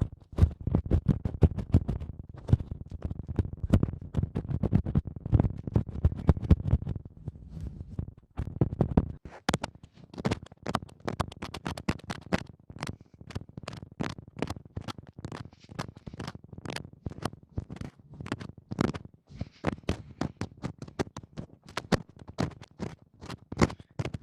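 Close-miked ASMR ear cleaning: rapid scratching and rubbing right at the microphone, heavy and rumbly for the first nine seconds or so, then turning into thinner, sharper scratching clicks.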